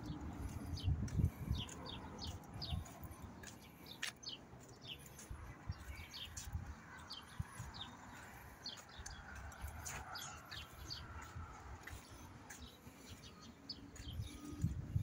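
Small birds chirping over and over in short, high, falling notes, over a faint low rumble with scattered low thumps.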